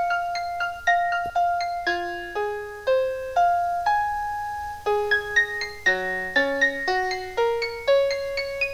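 Instrumental break of a pop song's backing track: a piano-like keyboard playing a melody of separate notes, two or three a second, each struck sharply and dying away, with no singing.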